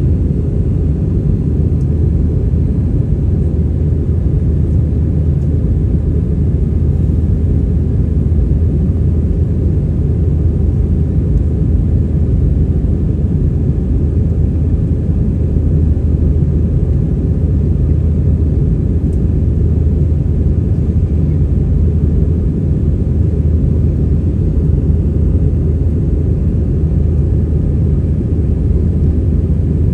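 Steady low rumble of an Airbus A320-200 heard from inside the passenger cabin: engine and airflow noise, constant throughout.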